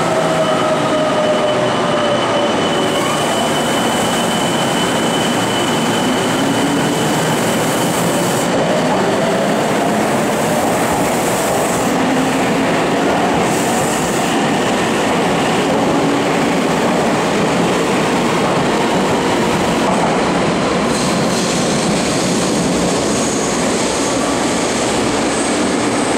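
Meitetsu 1700 series electric train running along an underground station platform: a steady loud rumble of wheels on rail. A high thin wheel squeal fades after about seven seconds, and a motor whine falls in pitch at first and rises again around the middle.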